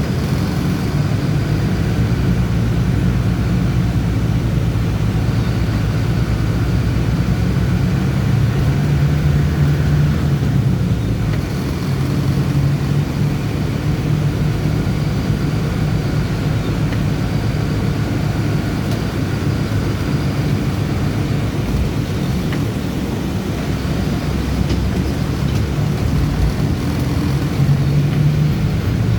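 Bus engine running as the bus drives, its note rising and falling with speed, over steady road noise.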